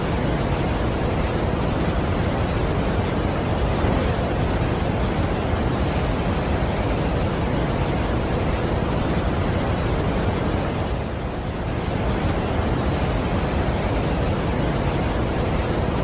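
Waterfall roar: a steady, dense rush of falling water, dipping slightly for a moment about eleven seconds in.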